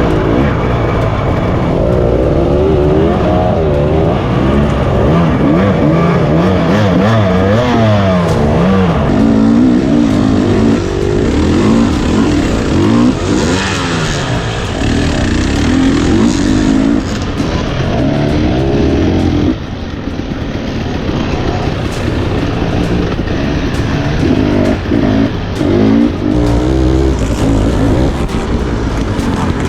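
Dirt bike engine revving up and down over and over as the rider picks through tight singletrack, with wind and ground noise underneath. The sound drops suddenly in level about two-thirds of the way through, then carries on.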